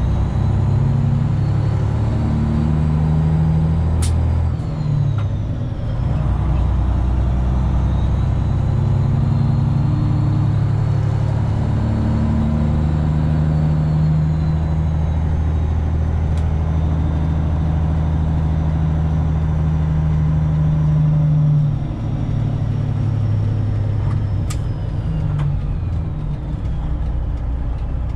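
Straight-piped Detroit Diesel 12.7 (Series 60) in a semi truck running steadily under way. The engine note drops and picks back up about five seconds in, and drops again about 22 seconds in. Two sharp clicks are heard, one about 4 seconds in and one near 24 seconds.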